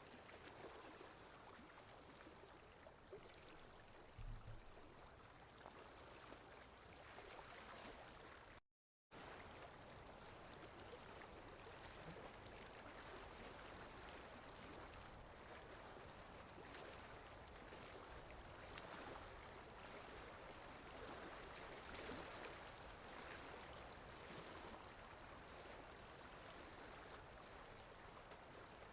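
Soft, steady rain falling. A brief low thump comes about four seconds in, and the sound cuts out completely for a moment just before nine seconds, then resumes.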